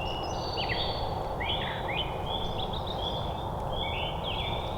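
Small songbirds singing: a run of short, high whistled notes, some with quick slurs, repeated over and over above a steady low background hiss.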